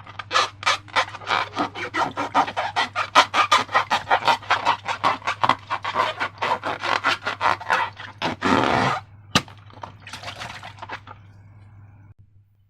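Slime being squeezed and pulled by hand: a rapid run of sticky clicks and pops, about four or five a second, with a longer rasp about eight and a half seconds in, then a few softer clicks dying out near the end.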